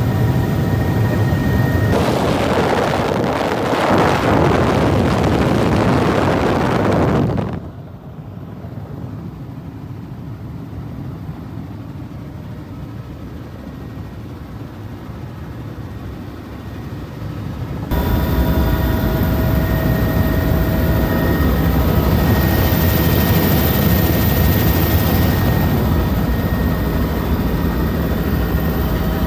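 Helicopter running, heard in several abrupt segments: a steady drone with whining tones, a stretch of rushing noise, and a quieter low rumble in the middle before the loud drone and whine return.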